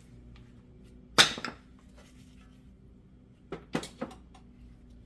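Hard metal brake parts being handled: one sharp clack about a second in, then three lighter clicks near the end.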